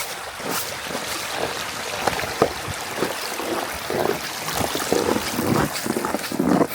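Mountain stream water running steadily. Over it are crunching footsteps in snow, louder in the second half.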